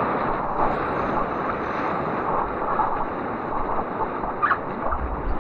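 Whitewater rushing in a steady roar, with wind buffeting the microphone near the end.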